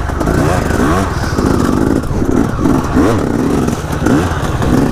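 Dirt bike engine revving up and down, its pitch rising and dropping again about once a second as the throttle is opened and shut.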